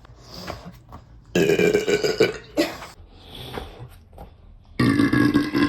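A person burping loudly twice, each burp lasting about a second, the second starting near the end.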